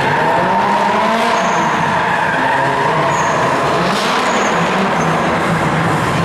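Drift car's engine revving up and down as the car slides, with tyres skidding and giving a few short high squeals.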